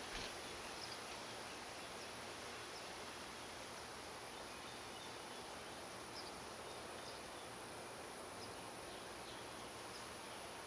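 Faint outdoor garden ambience: a steady hiss with a steady high-pitched whine, and a few faint, brief chirps scattered through it.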